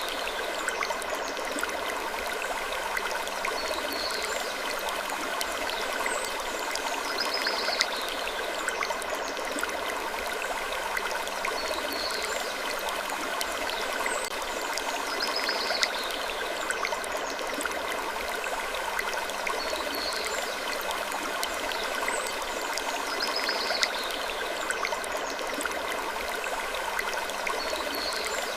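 Gentle wood creaking over a steady noisy ambience bed, with short high creaks coming back about every four seconds in a looping pattern.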